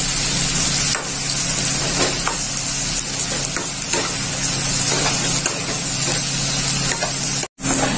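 Chopped onion sizzling steadily as it fries in oil and butter in a pan, with a few light knocks from stirring and a steady low hum underneath. The sound cuts out for an instant near the end.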